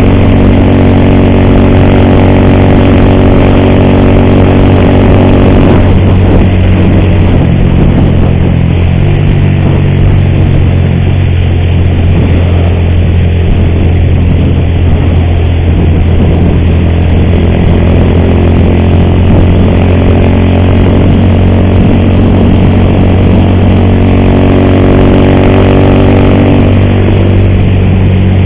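Motorcycle engine running at road speed with wind and road noise, on a bike whose cam chain the rider says is making an ugly noise. The engine note changes about six seconds in, then holds steady.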